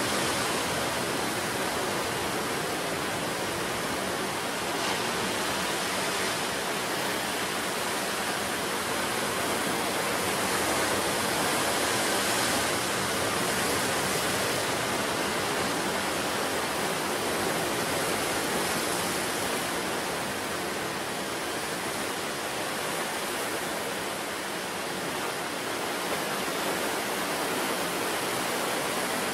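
Sea surf breaking on the shore: a continuous rush of waves that swells and eases gently.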